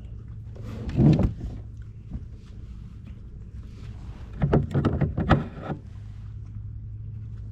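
Sounds of a fishing kayak on the water: a steady low hum underneath, with a loud burst of noise about a second in and a longer cluster of bursts around five seconds.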